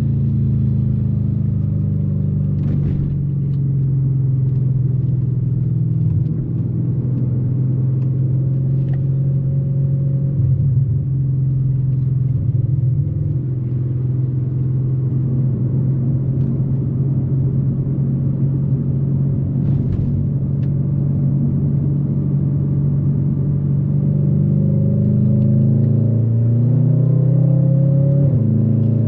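Audi RS4 B8's 4.2 FSI V8 with a straight-pipe exhaust, running at a steady engine speed. Its pitch eases down slightly in the first couple of seconds and shifts up again near the end.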